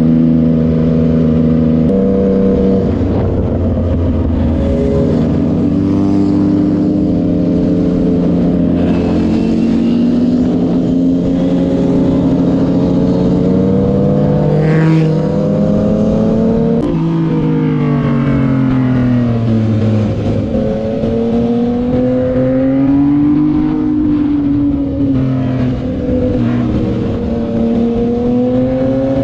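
Sport motorcycle engine running under load, its pitch climbing and falling as it rides, with a sudden drop in pitch about halfway through at a gear change.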